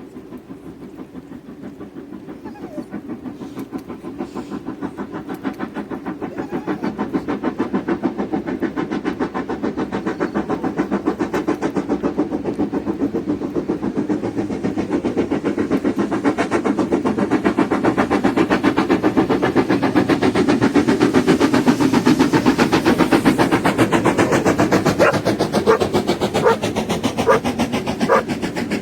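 A steam train drawn by an LMS Black Five locomotive, running with a rapid, even beat that grows steadily louder as it approaches. A few short sharp sounds come near the end.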